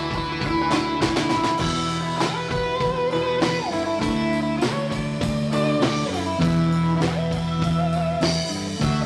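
Live band playing an instrumental break: electric guitar lead with bent notes over bass and a drum kit keeping a steady beat.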